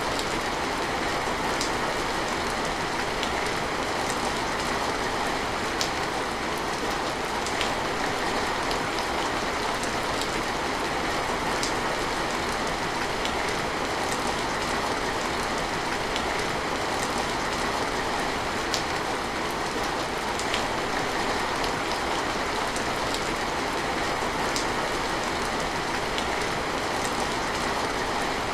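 Steady rain falling, an even hiss with scattered sharp drip ticks every few seconds.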